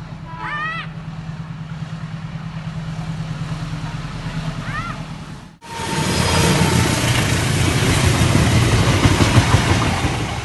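A steady low engine hum with a child's brief calls over it. After a sudden cut about halfway, a loud, even rushing rumble of a train passing close by takes over.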